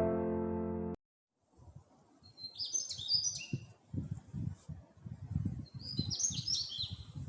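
Piano music stops about a second in. A songbird then sings two short, quick twittering phrases a few seconds apart, over an irregular low rumbling.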